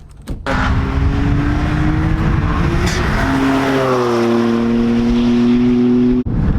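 Car engine running hard under load on a race track, its pitch climbing over the first few seconds and then holding steady. It cuts off abruptly near the end.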